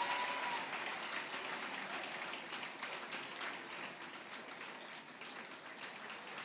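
A congregation applauding, the clapping gradually dying down.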